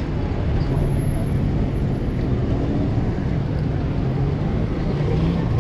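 City street traffic: a steady low rumble of vehicles, with an engine humming through most of it.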